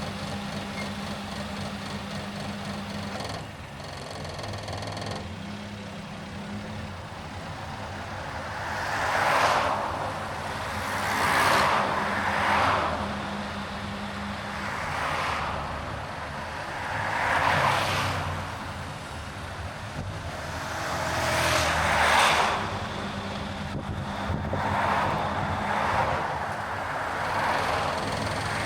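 Car driving on a highway: a steady low engine and road hum, with about six swells of rushing noise, each a second or two long, from other vehicles going by.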